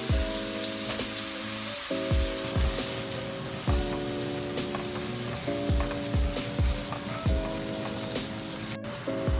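Spaghetti, sausage and garlic sizzling in hot oil in a wok while being stirred with a spatula. Background music with held chords and a steady kick-drum beat plays over it.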